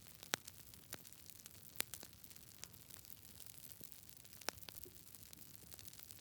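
Wood fire burning in a fireplace: a soft steady hiss with irregular crackles and pops from the burning logs, a few sharper pops standing out, about a third of a second in, near two seconds and past the middle.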